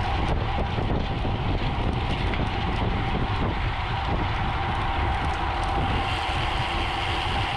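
Wind rushing over a bicycle-mounted camera's microphone as a road bike rides at speed, with steady tyre and drivetrain hum underneath. A higher hiss joins about six seconds in.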